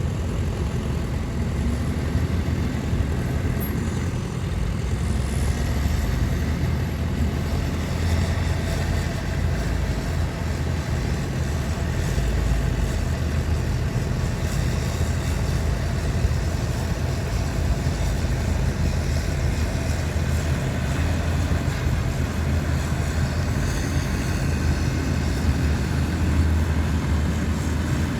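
Heavy diesel earthmoving machinery (bulldozer and dump truck engines) running steadily under load, a continuous low drone.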